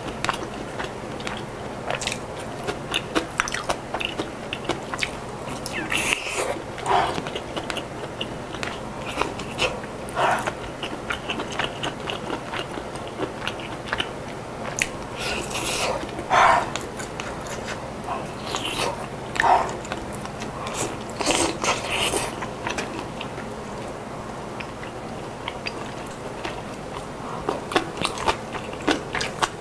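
Close-miked chewing and biting of spicy cabbage kimchi and boiled chicken: crunchy bites and many small, irregular wet mouth clicks, with a few louder bites scattered through.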